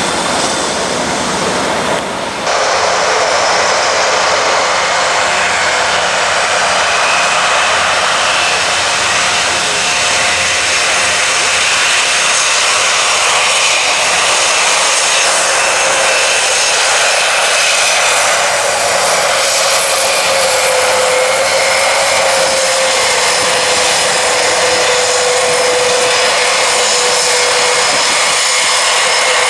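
Four turboprop engines of an Airbus A400M Atlas military transport, driving eight-bladed propellers, running loud and steady in flight. A droning propeller hum wavers slightly in pitch, and there is a brief dip in level about two seconds in.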